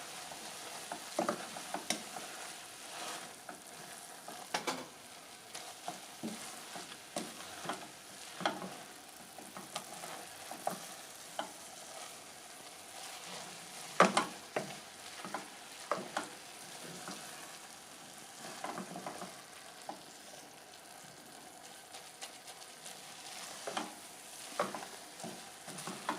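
Shredded cabbage sizzling as it fries in a pan, with a utensil knocking and scraping against the pan now and then as it is stirred; one sharper knock about halfway through.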